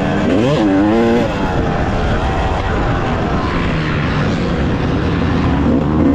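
Yamaha YZ250X two-stroke dirt bike engine running under throttle while riding, with wind noise. Its pitch jumps up and drops back within the first second, then it runs lower and steadier until it rises again near the end.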